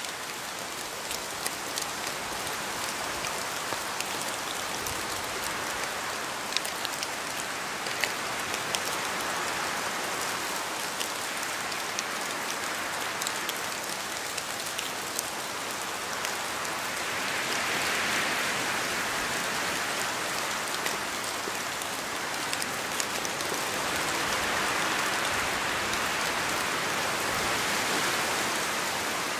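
Steady rain falling, a continuous hiss with scattered sharp drips of individual drops landing, swelling gently in strength a few times.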